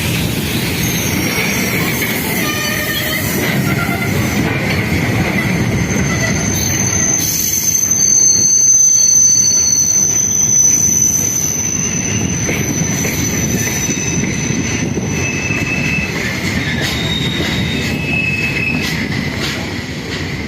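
Passenger express train running through a station at speed without stopping: a steady rumble and rattle of coach wheels on the rails, with thin high-pitched wheel squeals. The longest squeal comes mid-way, where the passing is loudest.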